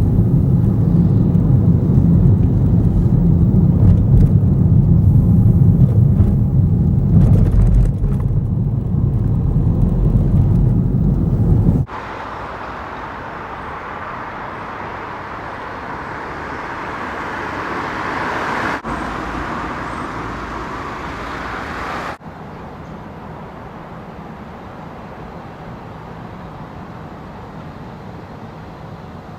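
Motor vehicle engine noise: a loud low rumble that stops abruptly about twelve seconds in. A quieter, steadier running noise follows, and it changes sharply twice more.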